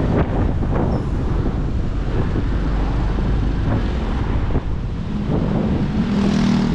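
Wind rushing over the microphone of a moving motorcycle, with its engine running underneath. A steadier engine note rises above the wind near the end.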